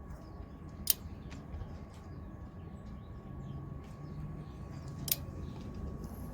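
Hand tools working the metal mount hardware: two sharp clicks about four seconds apart, with fainter ticks in between, over a low steady hum.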